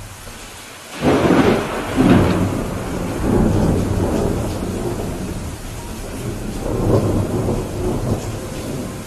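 Steady rain with a thunderclap breaking about a second in, then rolling thunder that rumbles on and swells again near the end.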